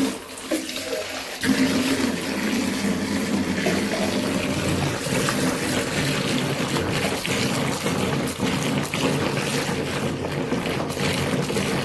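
Water running and splashing as clothes are washed by hand, getting louder about a second and a half in and then going on steadily with small splashes.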